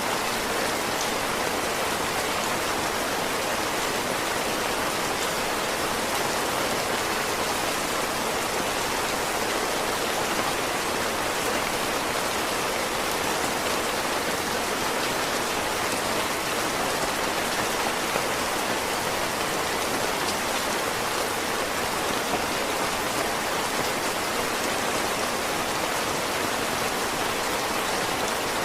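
Heavy rain falling steadily, an even hiss of drops on surfaces that holds constant with no letup.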